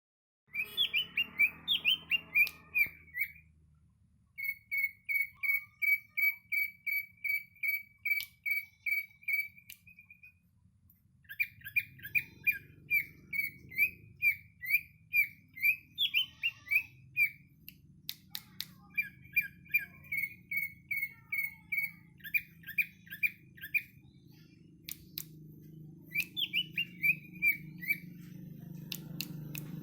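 Leafbird (cucak ijo) singing: phrases of quick, evenly repeated sharp chirps, a few a second, broken by short pauses. A low hum slowly gets louder near the end.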